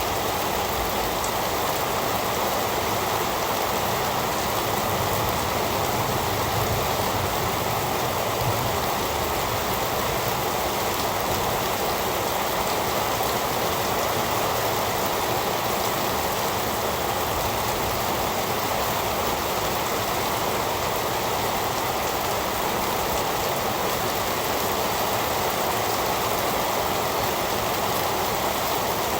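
Steady heavy rainfall: a constant dense hiss of rain on surfaces, with faint scattered drop ticks.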